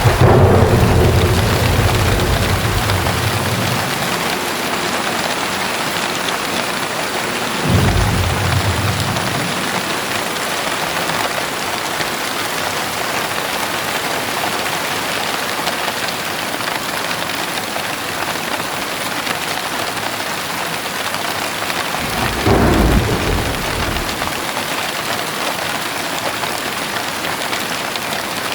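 Steady heavy rain hissing, with thunder rumbling three times: a longer roll at the start lasting about three seconds, a short one about eight seconds in, and another about twenty-two seconds in.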